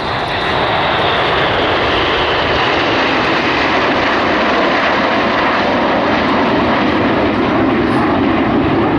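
Engine noise of a fixed-wing display aircraft flying past, loud and steady after building up in the first second, with its pitch slowly falling.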